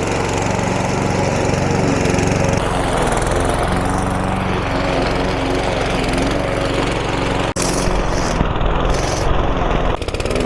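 Petrol walk-behind lawn mower engine running steadily, with a sudden break about seven and a half seconds in.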